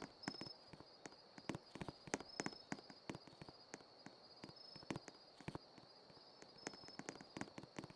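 Faint, irregular clicks and taps, several a second, over a steady thin high-pitched tone.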